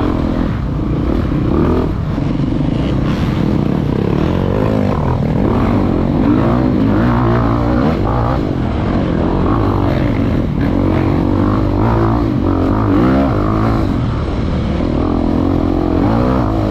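Off-road dirt bike engine running, its pitch rising and falling as it is revved.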